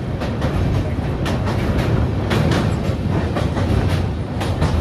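Passenger train running across a steel truss bridge: a steady, loud low rumble with irregular clanks from the wheels on the track.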